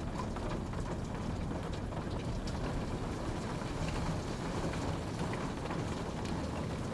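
Steady rainfall, a continuous rushing hiss with scattered individual drops ticking on a surface.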